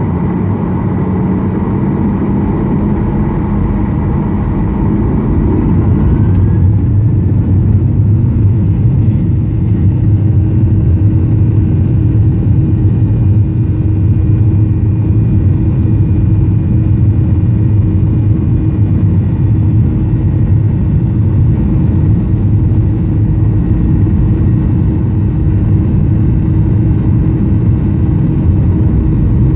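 Cabin noise of a Boeing 737-800 with CFM56-7B turbofans: a loud, steady engine and airflow rumble. About six seconds in, the higher part of the sound fades after a short rising tone, and a heavier low rumble with a steady hum carries on.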